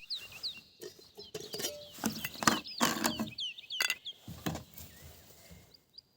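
A small bird calling with many short, quick high notes, mixed with a run of sharp knocks or cracks about every half second to a second.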